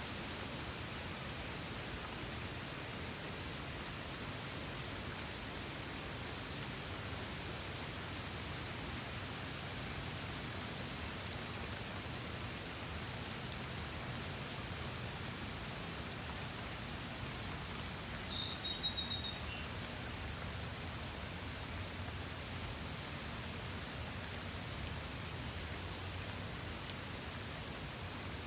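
Steady rain falling, an even hiss of many drops on surfaces. About two-thirds of the way through, a brief high, rapid chirp sounds over it.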